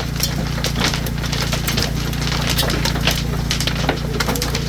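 Hailstones, pea- to golf-ball-sized, pelting down in a dense, irregular patter of sharp knocks and cracks, over a steady low hum.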